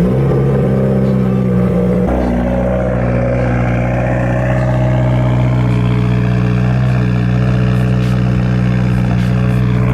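Cold turbocharged car engine catching and settling into a loud, steady idle after sitting for two days, its note shifting slightly about two seconds in. Really loud.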